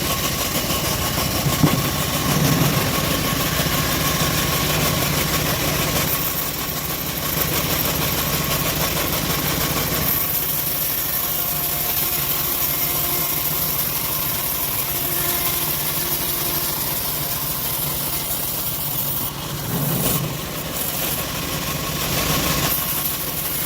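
Home-built bandsaw sawmill running steadily, a continuous mechanical din of its drive and blade.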